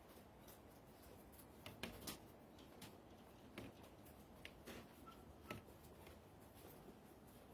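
Near silence with scattered faint clicks and taps at irregular intervals.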